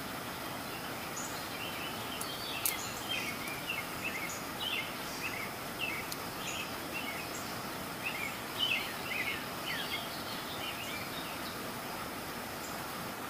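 Small birds chirping in many short, quick falling notes over a steady background hiss.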